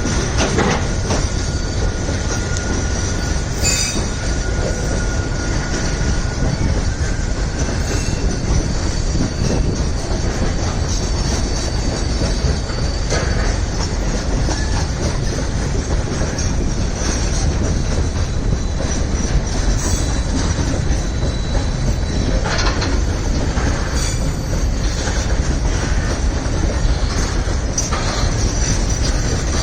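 Loaded freight train rolling past: a steady heavy rumble of wagon wheels on the rails, with thin high wheel squeal and a few sharp clanks.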